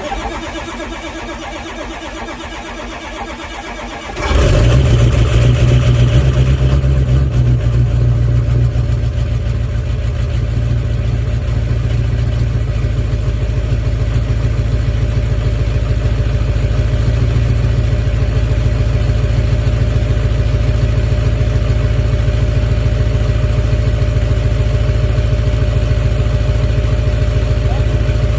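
Ford 6.0 Powerstroke V8 turbo-diesel being cold-started at 14°F: the starter cranks for about four seconds, then the engine fires and runs loudly at a high idle that eases slightly a few seconds later and holds steady.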